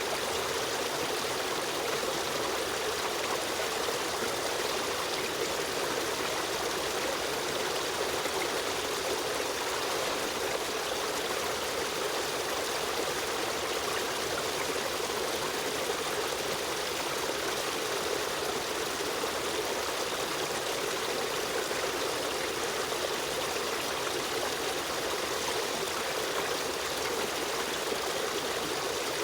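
Stream water running over rocks, a steady trickling rush with no breaks.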